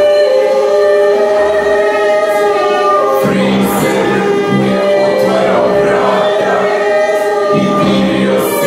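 Choir-like music of layered, sustained singing voices holding long notes. A low held note comes in about three seconds in and drops out shortly before the end.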